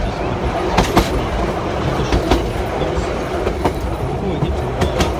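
Railway passenger carriage running along the track: a steady rumble of steel wheels on the rails, with sharp clacks every second or so as the wheels pass over rail joints.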